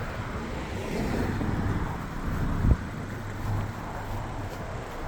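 Road traffic and wind on the microphone, with a steady low hum, and a single short thump about two and a half seconds in.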